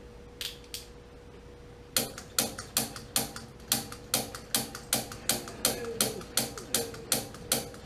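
Gas water heater's pilot igniter clicking over and over, two clicks, then a steady run of about two or three a second, without the pilot catching. The pilot tube is pinched, so too little gas may be reaching the pilot.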